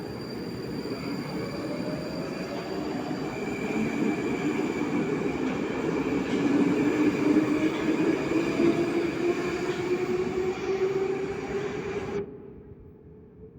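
Metro train pulling out of the station, its traction motors whining and rising steadily in pitch as it accelerates over a running rumble of wheels. The sound cuts off abruptly near the end.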